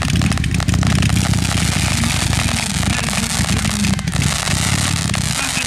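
Fireworks crackling in a dense run of rapid pops, over a steady low rumble.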